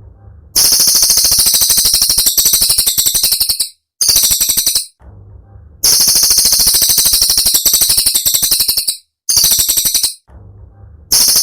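Cililin songbird singing rapid-fire, high-pitched trills in several bursts a second or three long, separated by short pauses.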